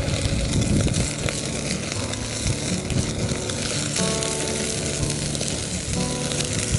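Campfire crackling and popping steadily, with background music playing over it.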